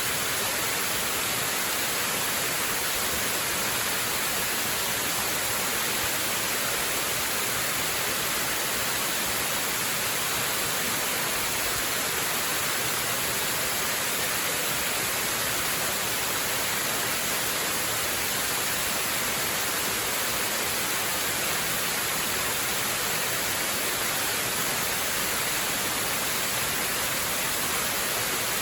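Waterfall: a steady, unbroken rush of falling water, hissy and bright, with no change in level.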